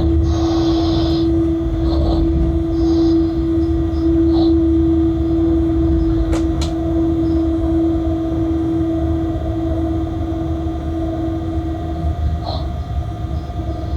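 Freight locomotive cab interior: a steady low running rumble with a strong constant hum from the locomotive's equipment, which cuts out about twelve seconds in. There are a couple of brief clicks.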